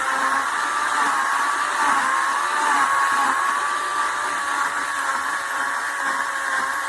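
WEN CP1014 corded 10-amp electric chainsaw running, its motor giving a steady whine whose pitch wavers slightly.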